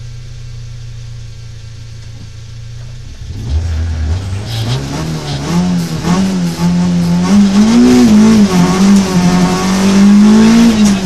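Rally car engine idling steadily at the stage start, then revved and launched about three seconds in, accelerating hard through the gears, its note climbing and dropping back several times as it shifts up.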